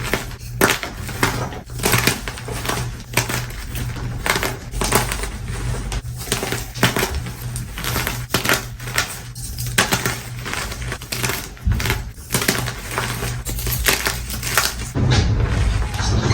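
Blocks of plain gym chalk being crushed by hand, a rapid, irregular run of crunching cracks and crumbles, over a low steady hum.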